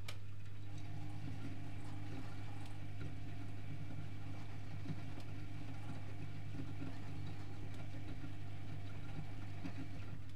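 Privileg Multispar 5110 washing machine running its wash cycle: a sharp click, then the motor hums steadily for several seconds as it turns the drum, over a constant low hum.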